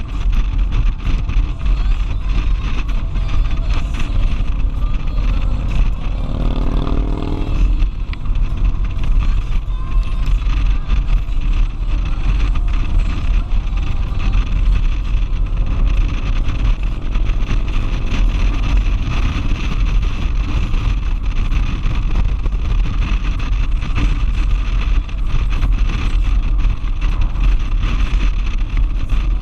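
Motorcycle riding at speed, picked up by a helmet-mounted camera: steady wind buffeting over engine and road rumble, with a brief pitched sound shifting up about six to seven seconds in.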